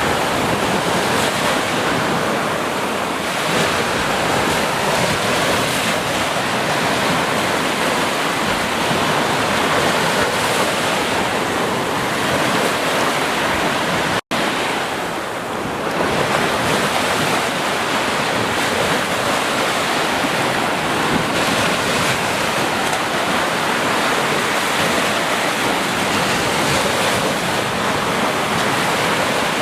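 Ocean surf breaking and washing on a beach: a steady rush of waves, cut by a momentary dropout about halfway through.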